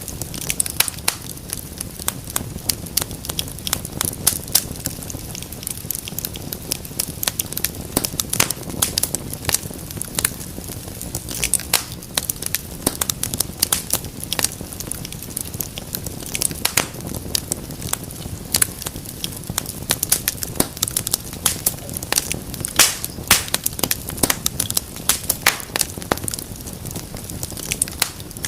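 Wood fire crackling in a fireplace: many irregular sharp pops and snaps over a steady low hiss of burning.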